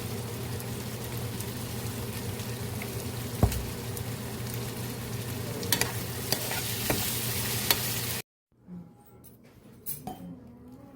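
Food sizzling in a hot pan, with a few sharp taps of a utensil against it. About eight seconds in the sizzling cuts off abruptly, leaving a quieter stretch with light clinks.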